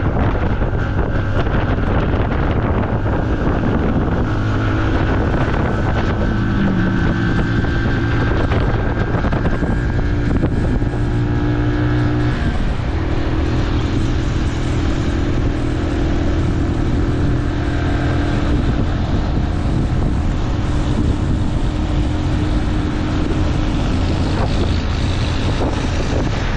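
Motorcycle engine running steadily under way, with wind buffeting the microphone. About halfway through the engine note breaks off briefly and then picks up again.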